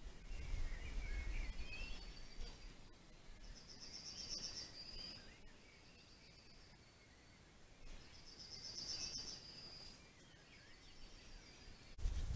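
A songbird singing a short, high trilled phrase that ends on a lower held note, twice about four and a half seconds apart, with softer chirps between, over a faint low rumble.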